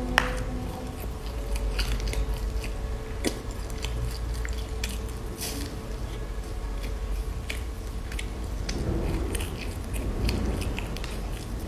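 Close-up biting and chewing of a crunchy granola bar with raisins and seeds: many crisp crunches, the sharpest just after the start and another about three seconds in.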